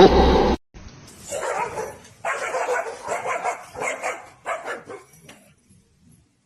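A dog barking over and over, about two barks a second, after a loud, short sound at the start.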